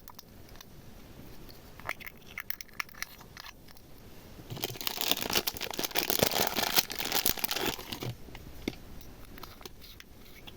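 Crinkly, crackling handling sounds: a few scattered sharp crackles, then a dense burst of crackling and crinkling for about three seconds.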